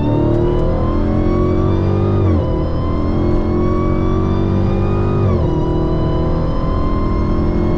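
Dodge Challenger SRT Hellcat's supercharged 6.2-litre V8 at full throttle from inside the cabin. The engine pitch climbs steadily and drops at an upshift about two and a half seconds in, climbs again and drops at a second upshift about five and a half seconds in, then keeps rising. The shifts are quick and hard, which the driver credits to the Stage 1 Direct Connection tune.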